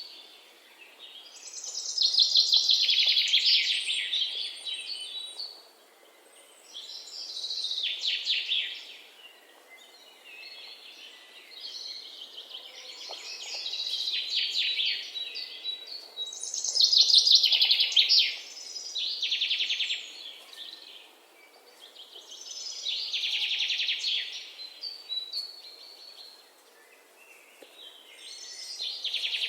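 A songbird singing short, fast-trilled song phrases of about two to three seconds each, one every four to five seconds, with quieter pauses between them.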